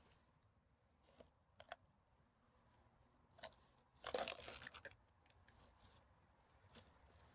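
Rustling and crinkling of litter being handled and bagged, with a louder crumpling rustle about four seconds in.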